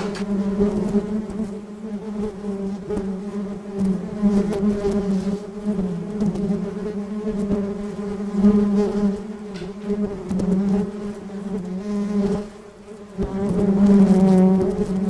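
Honeybee buzzing: a steady, low buzz that swells and fades a little as the bee moves, dropping away briefly about twelve seconds in before coming back.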